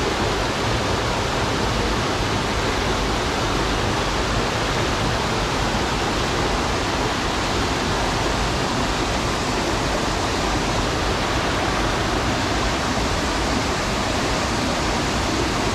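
Mountain stream rushing over rocks, a steady loud wash of water with no change.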